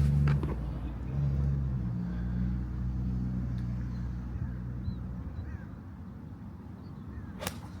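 A motor vehicle's low, steady hum that fades away over the first five seconds, then a single sharp click near the end: a golf club striking the ball on a tee shot. A few faint bird chirps.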